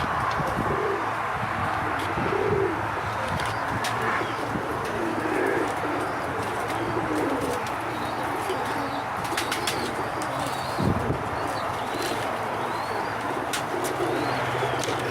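Domestic pigeons cooing over and over, their low warbling calls overlapping, with a few faint higher chirps among them.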